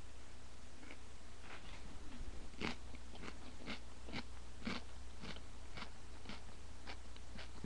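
A person chewing a raw sweet mini pepper: crisp crunches in a steady rhythm, about two a second, starting faintly and growing stronger a few seconds in.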